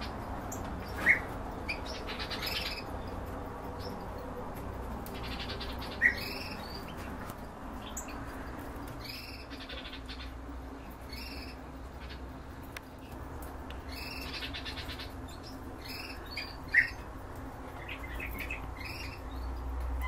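Caged small birds chirping and squawking, with repeated short calls throughout and three sharp, loud calls about a second in, about six seconds in, and near the end. A low steady hum runs underneath.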